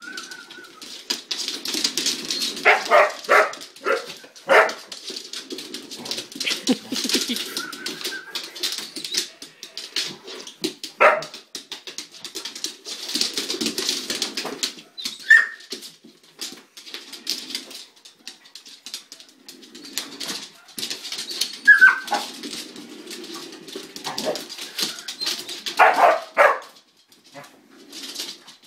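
Dogs barking in short volleys, with a high falling yelp or whine now and then. A scratchy rustling noise runs between the barks.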